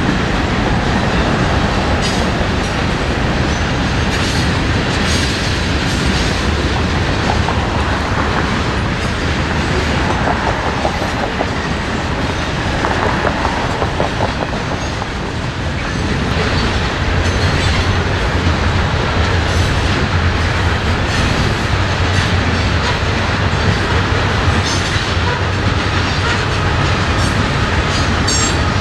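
Freight train cars rolling past, their steel wheels clicking over the rail joints. A low rumble grows stronger about halfway through.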